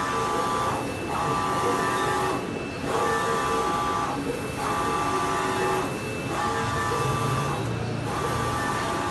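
Xenon UV roll-to-roll printer running, its print-head carriage sweeping back and forth across the media: a machine whine on each pass, about five passes with short pauses between them.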